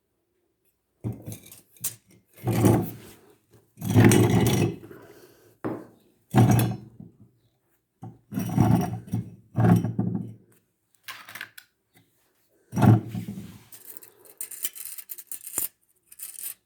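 Irregular handling noises: a run of scraping and clattering bursts, each a second or two long, with short quiet gaps between.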